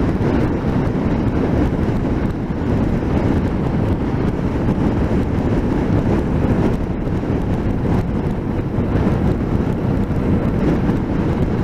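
Steady wind rush and road noise while riding a motorcycle, picked up by a microphone fitted inside the rider's helmet.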